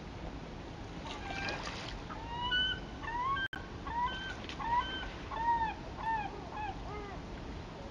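A bird giving a quick series of about a dozen short, arched, honking calls over a steady rush of river water.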